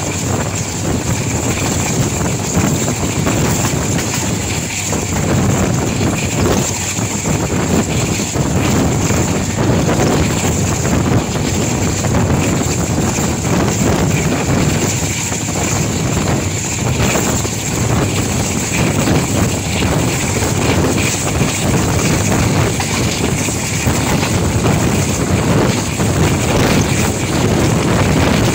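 Diesel locomotive engine running under throttle, a loud steady rumble with wind buffeting the microphone.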